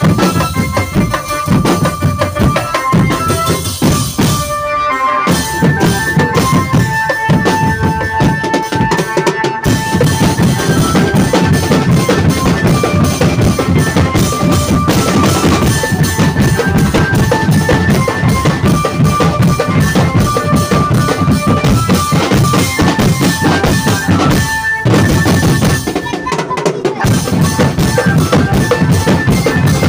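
Drumband music: dense, driving drumming on bass drums and snares with a melody line played over it, the drums dropping out for brief breaks about five, nine and twenty-five seconds in.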